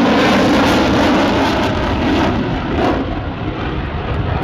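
Jet noise of an F-35B's Pratt & Whitney F135-600 afterburning turbofan as the fighter flies past, loudest for the first three seconds and then easing off.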